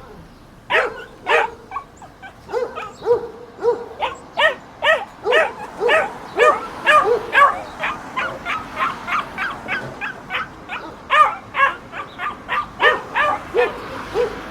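Small dogs yapping in a rapid series of short, high barks, about two or three a second, at two different pitches.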